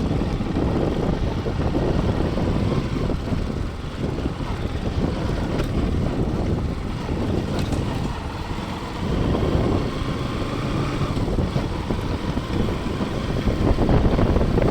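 Wind rushing over the microphone on a moving Bajaj Pulsar NS200 motorcycle, with the engine running underneath. The sound dips briefly about two-thirds of the way in.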